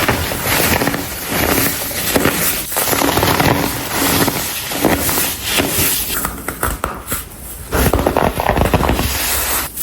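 Dried, coloured baking soda chunks being crushed and crumbled by hand, a dense run of crunching and crackling. It eases briefly about two-thirds of the way through, then picks up again.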